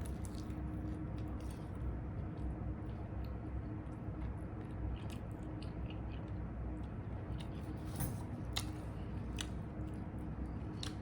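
A person chewing and biting into a chicken drumstick with a crunchy Flamin' Hot Cheetos coating, with scattered small crunches and mouth clicks and a couple of louder crunches about eight seconds in. A low steady hum runs underneath.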